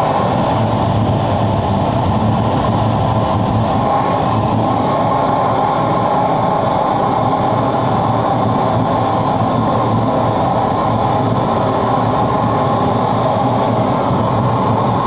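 Homemade propane-fuelled turbojet engine running with a steady, loud roar.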